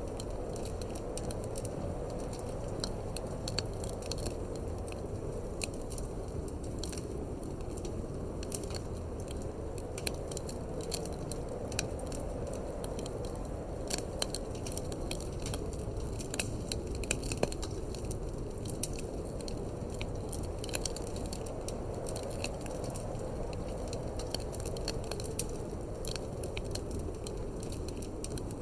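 Wood fire crackling in a fireplace, with many small irregular pops and snaps over a steady low rush of wind.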